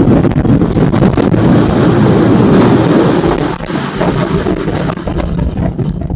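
Motorcycle engine and exhaust running under way, with wind buffeting the microphone; the engine note falls back about halfway through.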